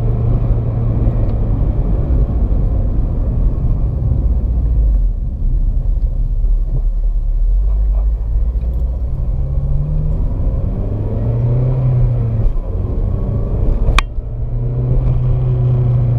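2007 Honda Civic Si's four-cylinder engine running while the car is driven through its gears, its pitch easing off, then rising under acceleration and settling again. A single sharp click comes near the end.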